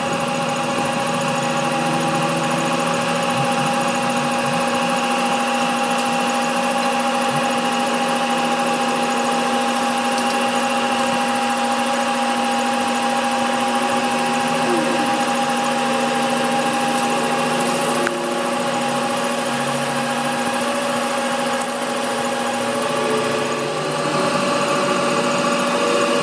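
Machine tool motor running steadily, a constant hum made of several steady tones with faint scraping over it.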